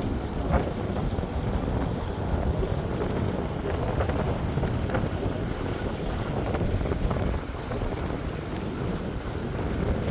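Boat motor running steadily with the boat under way at low speed, with wind rushing over the microphone.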